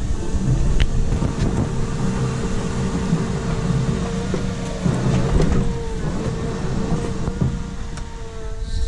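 Wacker Neuson EZ17e all-electric mini excavator running, its electric drive and hydraulics giving a steady whine over a low rumble, with a few clicks and knocks.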